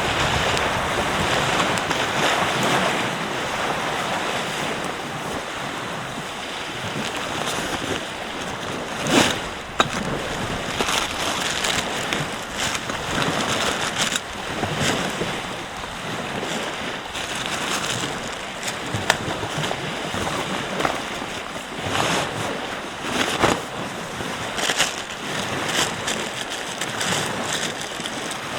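Ocean surf washing steadily on the beach, with wind, and a few sharp clicks scattered through it.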